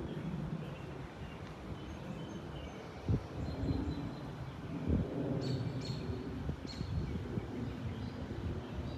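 Low, steady rumble of an Airbus A340-313 airliner's four CFM56 jet engines overhead. A few bird chirps come about halfway through, and two short thumps come a little after three seconds and at about five seconds.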